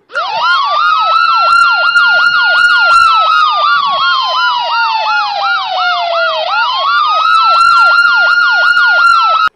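Ambulance siren sounding, a fast yelp laid over a slow wail. The wail rises, holds, sinks slowly and rises again about two-thirds of the way through. It starts and stops abruptly.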